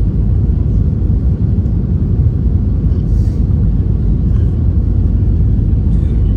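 Steady low rumble of an Airbus A320's cabin in flight: engine and airflow noise.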